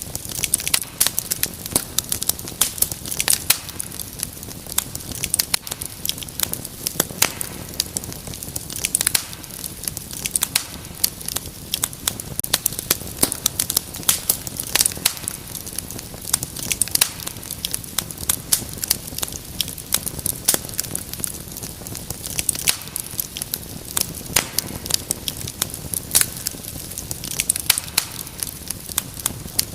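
Wood fire burning in a fireplace, with frequent sharp irregular crackles and pops over a steady low rumble of the flames.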